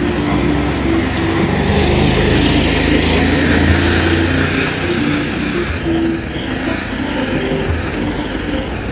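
Car driving along a road: steady engine and road noise.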